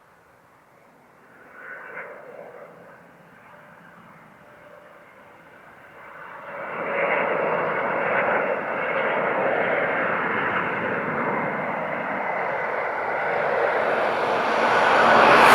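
A Boeing 777-200ER's jet engines on landing approach. The jet noise rises about six seconds in and keeps growing louder as the airliner nears, peaking at the end.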